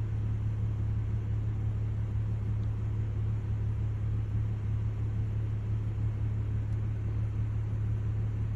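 Steady low hum that holds one even level throughout, with no thunderclaps or other sudden sounds.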